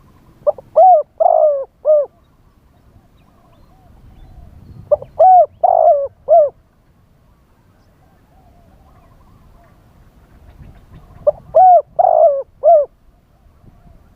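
Spotted dove cooing in three loud phrases about five seconds apart, each of four or five rounded coos. A fainter dove coos in between.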